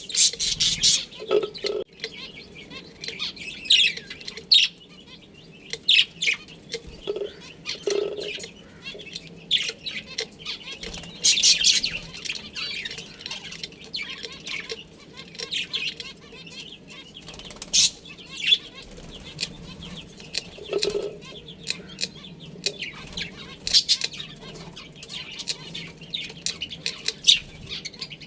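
Budgerigars chirping and chattering, a busy run of short, irregular chirps and squawks with no steady rhythm.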